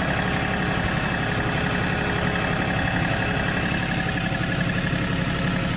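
John Deere diesel tractor engine running at a steady speed, an even, unchanging hum.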